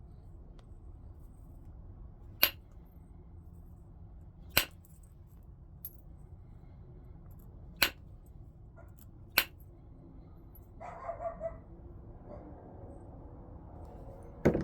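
Flintknapping: five sharp stone clinks a few seconds apart as flakes come off a stone preform under a knapping tool. A brief pitched sound comes a little after the middle.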